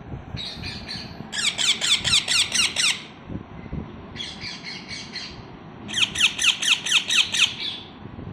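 Baby parrots chirping in two bouts of rapid, repeated calls that each fall in pitch, about six a second; each bout starts softer and then grows louder.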